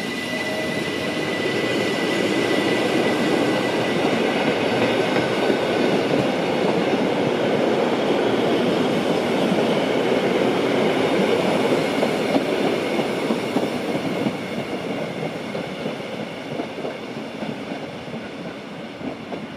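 Rhaetian Railway electric train, an ABe 8/12 Allegra railcar hauling red passenger coaches, pulling slowly away over the station tracks. The wheels rumble and clack, growing louder over the first few seconds, then fading from about two-thirds of the way in as the train recedes. A thin high whine is heard at the start and dies away after a few seconds.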